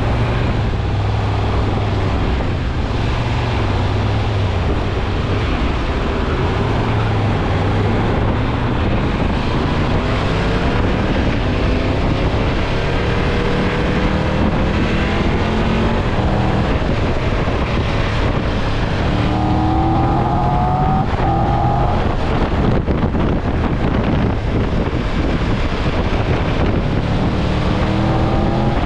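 A car on the move: steady engine and road noise, with the engine pitch rising several times as it accelerates.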